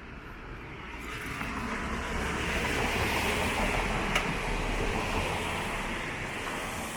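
A vehicle passing on a wet street: tyre hiss swells from about a second in, peaks midway, then fades slowly, with a single sharp click near the peak.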